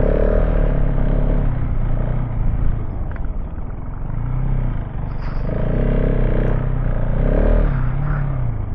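KTM 690 Enduro R's single-cylinder engine running under load off-road, its revs rising and falling several times as the throttle is worked, over a steady low rumble.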